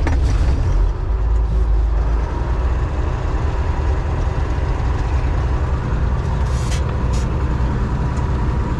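John Deere 4400 combine running steadily while it is driven, its engine noise low and constant with a faint steady whine over it. Two brief hissing sounds come about two-thirds of the way through.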